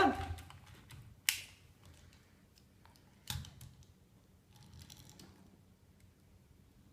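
Two sharp clicks about two seconds apart, then a brief faint rustle: a car door that opens being worked by hand.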